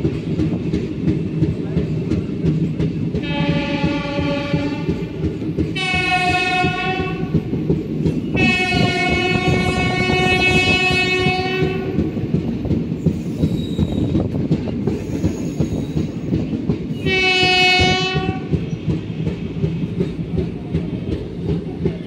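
Train running through a yard with a steady rolling rumble of wheels on rails, while a locomotive horn sounds four times: two short blasts, then one long blast of about three and a half seconds, and another short blast later on.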